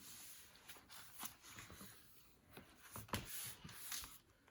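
Faint paper handling on a handmade junk journal: soft rustles with a few light clicks and taps as pages and paper pockets are moved.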